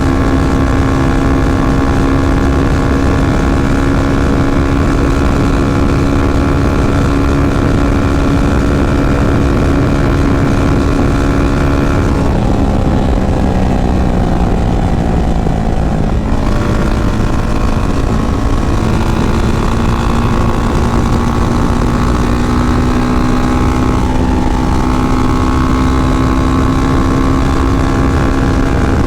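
Yamaha FZ25's single-cylinder engine running at a steady cruising speed. About twelve seconds in, the pitch drops and keeps falling for a few seconds as the throttle closes and the bike slows, then climbs back gradually as it accelerates to a steady cruise again.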